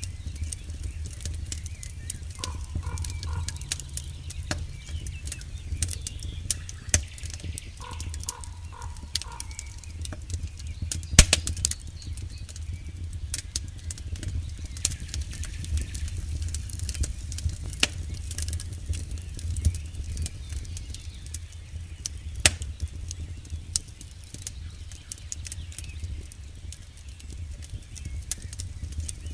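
Campfire burning with a steady low rumble and frequent sharp crackles and pops of burning wood. One pop about eleven seconds in is louder than the rest.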